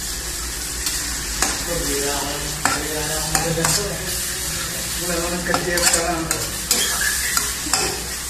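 Sliced tomatoes and onions sizzling as they sauté in an aluminium wok, stirred with a metal ladle that scrapes and clicks against the pan now and then.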